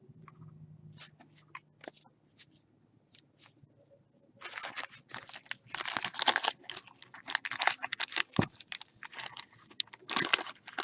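Plastic packaging of trading cards crinkling and tearing as a pack is opened, with a few light clicks at first, then steady loud crinkling from about four seconds in.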